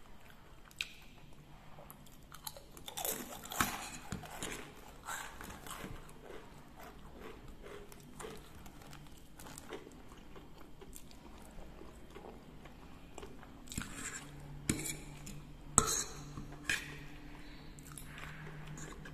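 Close-up mouth sounds of a person eating fried instant noodles and crisp seroja crackers: steady chewing, with sharp crunches a few seconds in and several more near the end.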